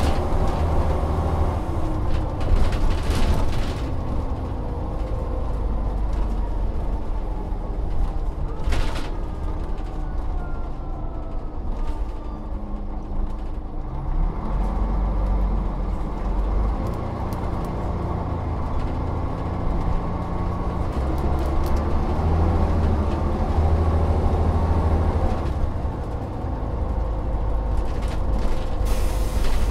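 Volvo Olympian double-decker bus's diesel engine running under way, its pitch rising and stepping back several times as it pulls through the gears, with creaks, rattles and a few sharp knocks from the bus body.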